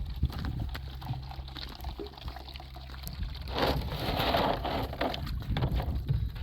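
Water pouring and gushing into a tank, swelling louder a little past halfway, over a low, steady engine hum.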